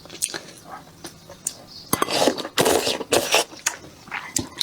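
Close-up eating sounds of spicy noodle soup: wet chewing and a few louder slurps about two to three and a half seconds in, with light clinks of utensils against the bowl.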